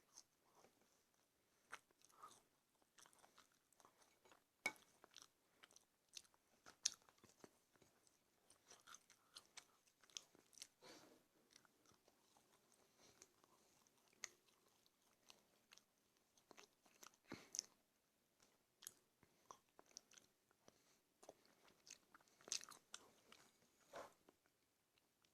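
Close-up eating sounds: a person chewing and biting food with irregular wet clicks and crunches, quiet overall with sharper crunches here and there.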